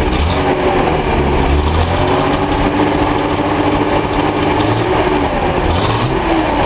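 Datsun 280Z's L28 straight-six engine being throttled up and held at raised revs, rising once more near the end and then dropping back.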